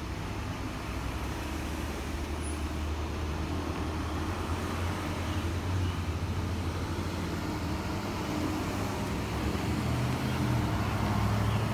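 A motor vehicle's engine running steadily as a low hum over background noise, growing a little louder near the end.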